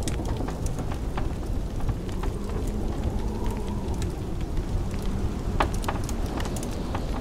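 Wood fire crackling in a fireplace, with sharp pops scattered irregularly, over the steady low rumble of blizzard wind. A faint whistle of wind rises and falls in the middle.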